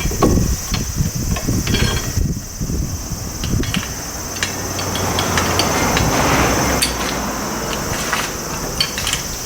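Repeated knocks and clatter of hand-tool work on metal, thickest in the first few seconds, then a softer rushing noise, over a steady chirring of insects.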